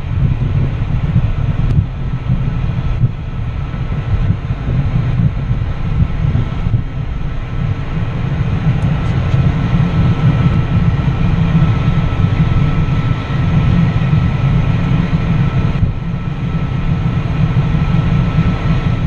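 Steady cabin noise of an Embraer Phenom 300 business jet: a loud, deep rumble with a faint, steady high whine from its turbofan engines.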